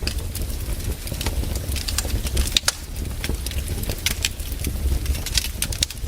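Wood fire in a fireplace crackling, with irregular sharp pops over a low, steady rumble.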